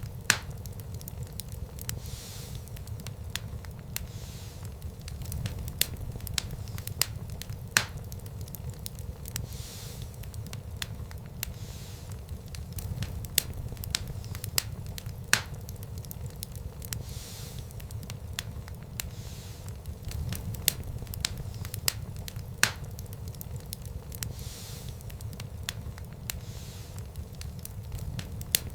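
Wood fire crackling in a fireplace: a steady low rumble of burning with irregular sharp pops and snaps, a few of them louder, and soft swells of hiss.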